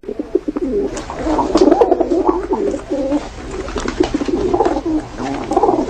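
Several pigeons cooing at once, their calls overlapping without pause.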